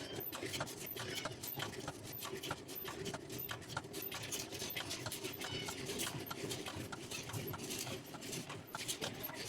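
Light taps in a steady rhythm, about two a second, over a low background noise.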